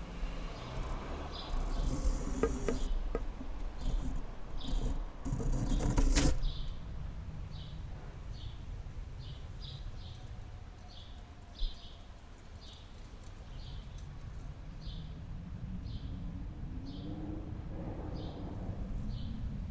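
Snowstorm ambience: wind rumbling low and steady, with a short high insect-like chirp repeating about once a second. A louder rush of wind noise with a few knocks fills the first six seconds.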